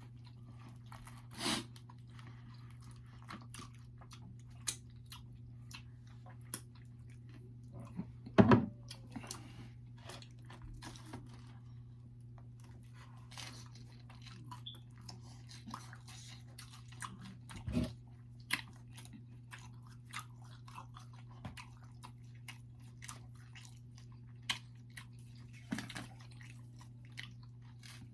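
Close-up chewing and crunching of pizza, with many small mouth clicks and a few louder knocks, over a steady low hum.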